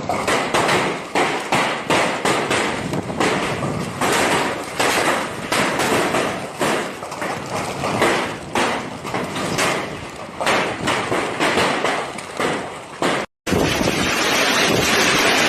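Hailstones pelting down in a dense, irregular clatter of hard impacts. Near the end it cuts off suddenly and gives way to a steady rushing noise of heavy hail or rain.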